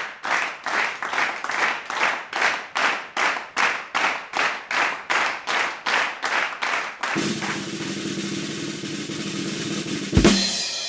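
Drum music: evenly spaced drum beats about three a second. From about seven seconds in, a sustained drum roll plays under a held low chord. It ends in a cymbal crash about ten seconds in that rings away.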